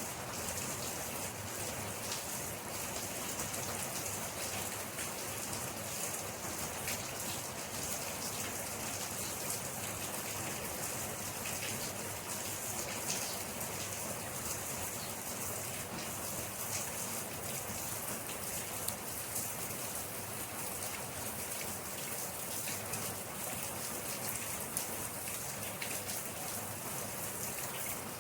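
Steady rain falling, an even hiss of many drops pattering on a surface, with no thunder.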